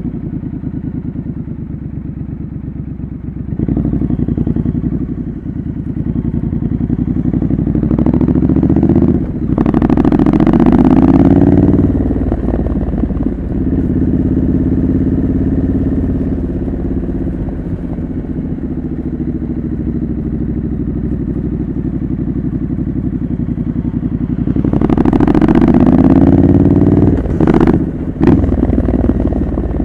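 Triumph Scrambler 900's parallel-twin engine through a homemade custom exhaust, heard while riding: it runs steadily and revs up twice, about a third of the way in and again near the end, each time with a short dip at a gear change. Wind noise on the microphone.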